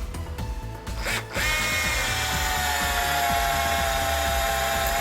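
Restored Keyang DD-1200 12-volt cordless drill driver starting up about a second in and running steadily with a whine, driving a self-drilling screw; it turns somewhat slowly. A few light clicks come before it starts, and background music plays underneath.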